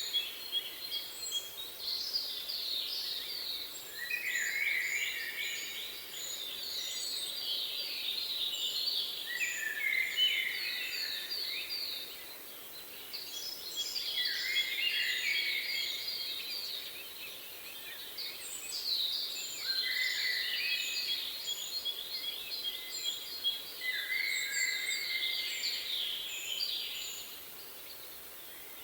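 Songbirds singing outdoors: overlapping phrases of rapid trills and chirps, each a few seconds long and recurring every four to five seconds, over a faint steady background hiss.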